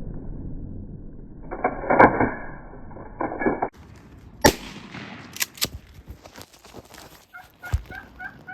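Turkey calling: a steady run of short repeated notes, about three or four a second, starting near the end. Before it come scattered sharp clicks and knocks.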